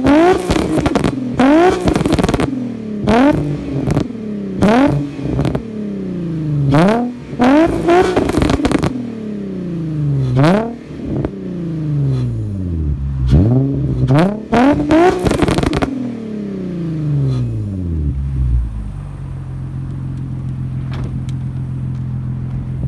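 2006 Infiniti G35's rebuilt 3.5-litre V6, with forged internals and 11:1 compression, breathing through a single exhaust and being revved in quick blips, the revs shooting up and falling back about eight times. After the last rev it settles to a steady idle.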